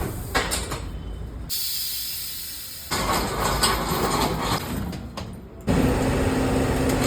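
Tyre-retreading workshop machinery with a hiss of air, cut off abruptly a few times; a steady low hum runs through the last part.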